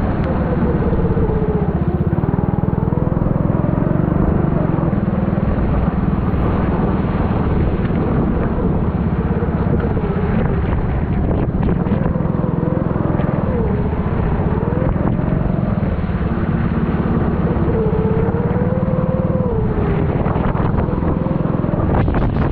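Four-stroke Honda kart engine running under load, its revs rising and falling again and again as the kart goes through the corners.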